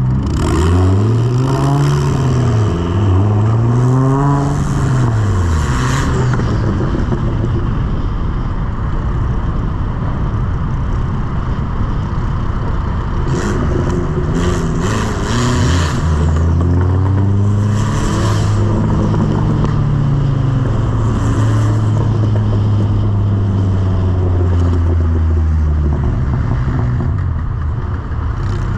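Car engine revved in three quick rising-and-falling blips over the first few seconds, then held at a steady, slightly wavering pitch for about ten seconds before dropping back.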